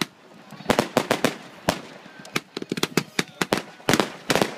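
Fireworks going off: a rapid, irregular series of sharp bangs and crackles, some in quick clusters.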